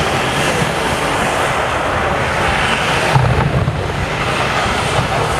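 Fireworks in a dense barrage, their overlapping bursts running together into a continuous rumble, with a heavier low boom about three seconds in.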